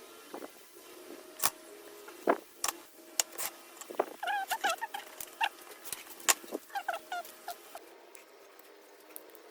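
Irregular sharp clicks and taps, with short squeaky chirps about halfway through.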